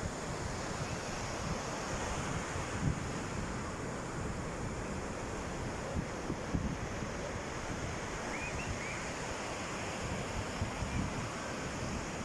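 Sea waves washing in a steady surf, with wind buffeting the microphone in low rumbling thumps.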